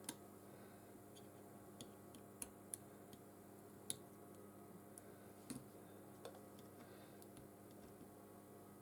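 Faint, scattered small clicks and taps of repair tools against an opened iPhone 13's internal parts, about eight spread over several seconds, over near-silent room hum.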